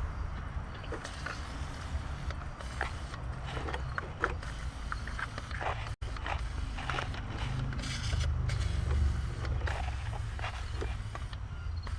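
Scattered light clicks and knocks of hand work on a car's plastic engine-bay trim, over a steady low rumble.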